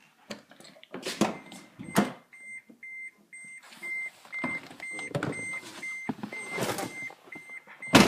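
A vehicle's electronic warning chime beeps steadily at about three beeps a second, the kind a truck sounds with a door open or the key in the ignition. Loud knocks and clatter from handling break in a few times, the loudest near the end.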